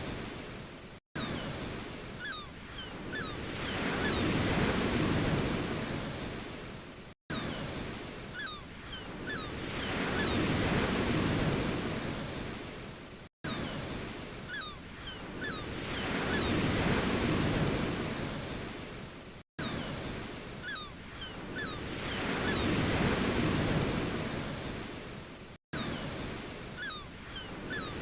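Ocean waves breaking and washing, swelling and falling back about every six seconds. The recording is a short loop that cuts out for an instant at each repeat, with faint short chirps in each cycle.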